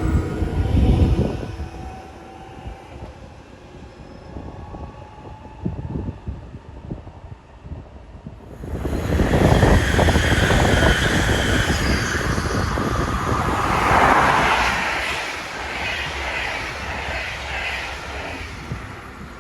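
Electric train passing the station: a low rumble fades in the first two seconds, then about nine seconds in a train arrives suddenly with a loud rush of wheels on rails and a high motor whine, loudest for several seconds before slowly fading.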